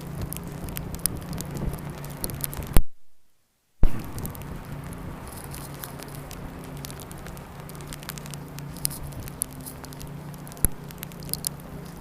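Sleet and wet snow pattering close to the microphone, a steady hiss with scattered sharp ticks. The sound cuts out completely for about a second near three seconds in.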